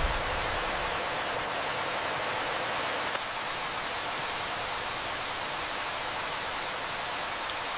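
Steady rain falling, an even hiss with no thunder, just as a rumble of thunder dies away at the start.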